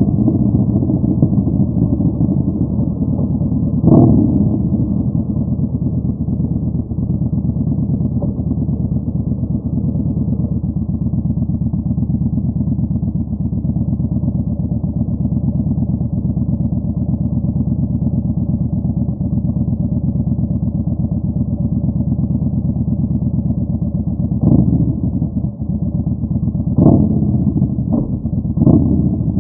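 Yamaha Bolt 950's air-cooled V-twin running steadily through a Vance & Hines Twin Slash Staggered exhaust while riding. There is a brief sharp burst about four seconds in and several more in quick succession near the end.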